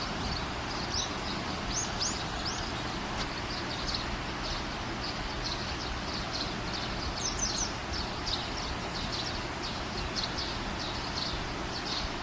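Small birds chirping, a stream of short high chirps repeating over a steady hiss of background noise.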